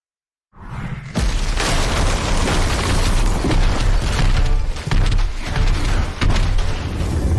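Cartoon battle soundtrack: orchestral music mixed with heavy booming impact effects. It starts out of silence about half a second in and jumps much louder about a second in.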